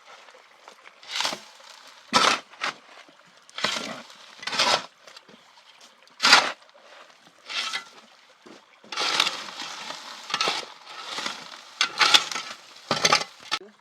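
A series of short, irregular scraping strokes, spaced out at first and coming closer together in the second half.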